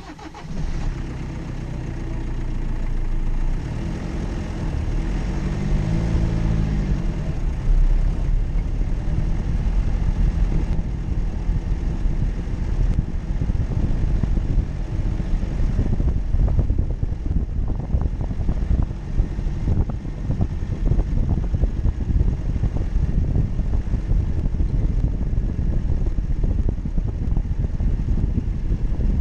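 Jeep Cherokee engine running while driving off-road. Its pitch rises and falls a few seconds in. After that it turns into a dense low rumble with many short knocks.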